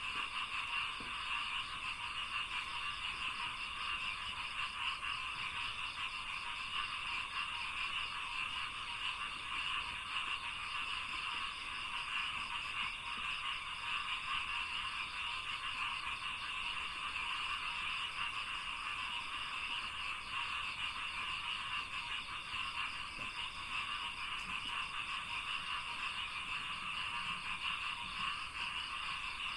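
Dense, unbroken chorus of many frogs calling in a rice paddy, a steady din of overlapping croaks.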